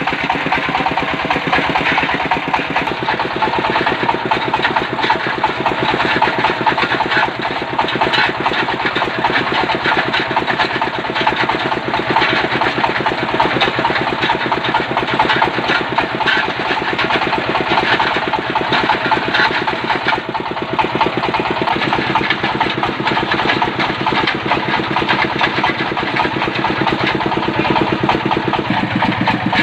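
Diesel engine of a well-drilling machine running steadily with a fast, even firing rhythm; its note changes slightly near the end.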